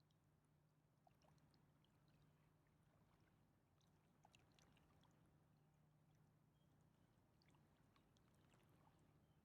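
Near silence: faint lapping and trickling of river water, with scattered small ticks over a low steady hum.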